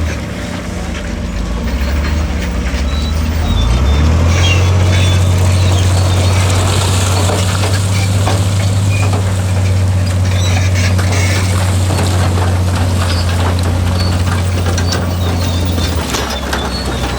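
Heavy diesel engine of an earthmoving machine running loud and steady, its pitch stepping up about four seconds in, holding, and dropping back near the end, with scattered clanks and scraping over it.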